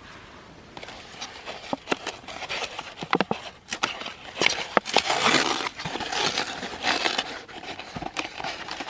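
Wood fire crackling and popping in a compact fire pit, with sharp irregular pops over a hiss that swells through the middle.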